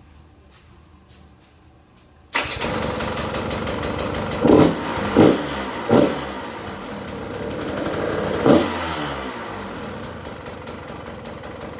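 2021 KTM 150 XC-W two-stroke dirt bike engine, fitted with an FMF exhaust, coming in about two seconds in and running, blipped four times in quick short revs before settling back to idle.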